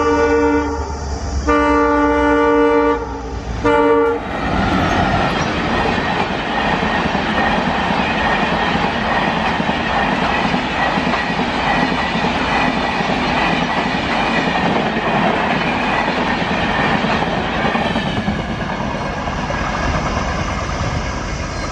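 WDP4 diesel locomotive's multi-tone horn sounding in blasts: one ending just under a second in, a longer one, and a short toot about four seconds in. Then the passenger coaches pass at speed with a steady rush and clatter of wheels on the rails.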